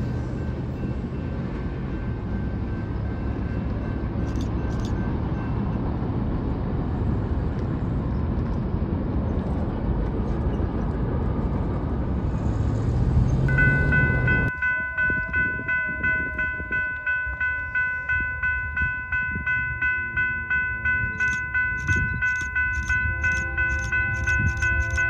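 BNSF freight train passing at a grade crossing, a steady rumble of wheels on rails, heard until it cuts off about halfway through. Then a railroad crossing's electronic warning bell rings steadily, about two rings a second.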